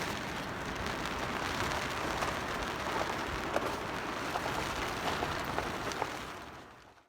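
Rain pattering steadily on a canvas tarp overhead, with scattered louder single drops, fading out near the end.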